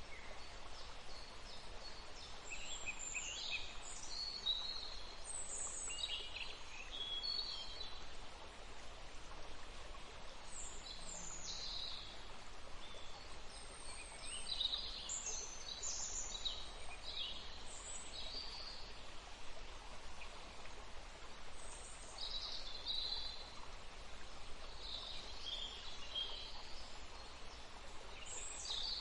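Steady rush of flowing water, with small birds chirping and trilling on and off over it.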